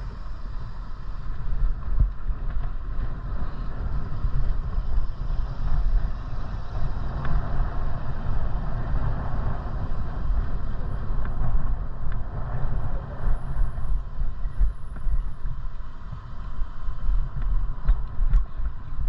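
Wind buffeting the microphone on a moving bicycle: a low, gusty rumble, with road noise underneath.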